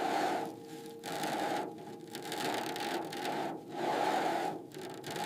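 Repeated hand scraping strokes, about one a second, working charred material off the fire-damaged car body.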